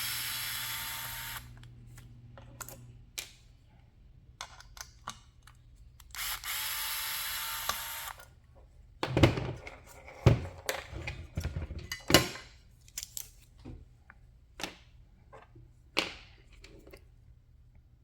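Small handheld power tool running in two short runs, about a second and a half and then about two seconds, a few seconds apart, followed by a string of sharp clicks and knocks.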